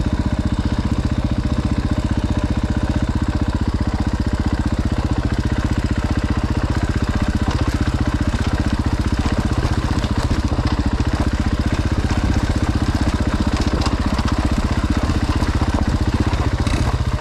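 Dirt bike engine running steadily at low revs, its firing pulses even and unchanging with no revving.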